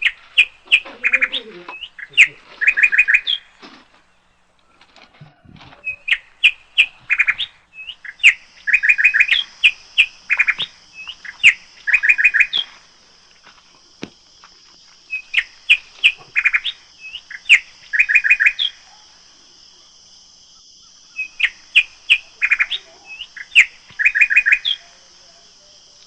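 A bird singing loudly, repeating short phrases of rapid chirps every second or two, with brief pauses between bouts. A steady high-pitched whine joins about a third of the way through and continues.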